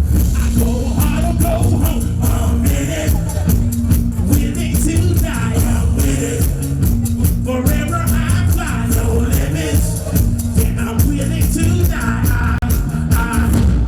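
Live rock song: a man singing over a loud band with heavy bass and a steady beat.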